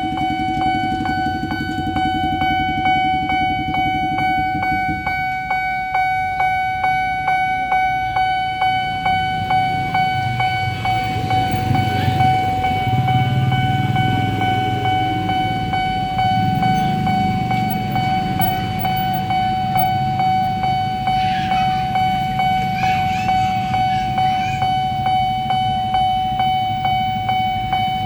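Railway level-crossing alarm ringing, an evenly repeated electronic bell tone, while a train rumbles past over the crossing.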